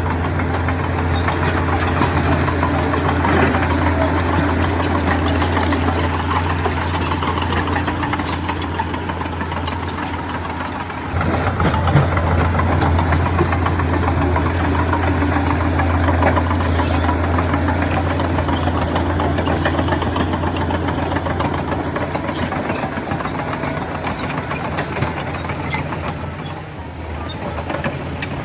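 Diesel engine of heavy earthmoving machinery running steadily with a low hum. About eleven seconds in it drops briefly, then comes back louder.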